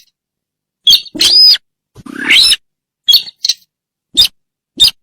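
Sintar bird lure call: a run of short, sharp calls about every half second, broken by two longer, harsher calls in the first half.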